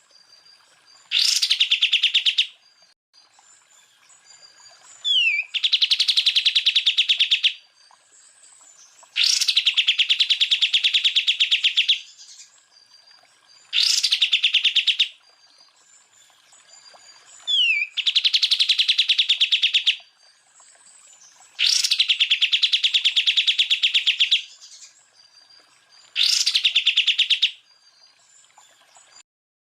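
Cucak ijo (green leafbird) singing in repeated loud bursts of very fast, rattling notes, the 'tembakan' or shooting phrases, each lasting one to two seconds and coming about every four seconds. A short down-slurred whistle comes twice between bursts.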